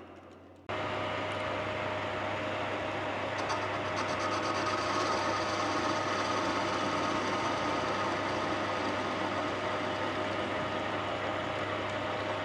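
Workshop lathe running steadily with a constant hum and a steady whine. It cuts in abruptly about half a second in.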